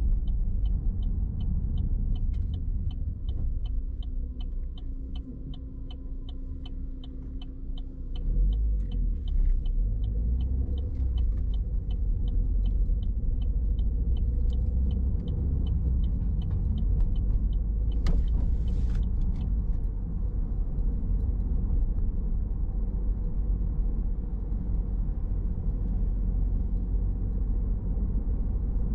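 A car driving, with a steady low rumble of engine and road noise. A regular ticking, about three a second, runs through the first eight seconds. The rumble grows louder about eight seconds in, and a short sharp noise comes a little past the middle.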